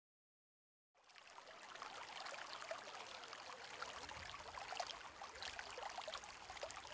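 Faint, steady rain, a patter of many small drops, fading in about a second in.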